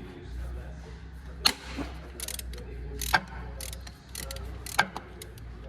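Hand tools working on metal car parts: three sharp metallic clinks about a second and a half apart, with short bursts of ratchet-like clicking between them.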